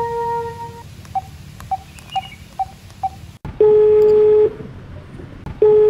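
Mobile phone keypad beeps as a number is tapped in, five short beeps about half a second apart, then the ringback tone of the outgoing call: two steady one-second tones a second apart, ringing while the call connects.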